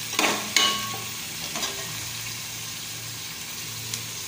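Canned tuna, garlic and onion sizzling in hot oil in a metal pot, stirred with a metal spoon that scrapes and clinks against the pot a couple of times in the first second, with a lighter scrape later on.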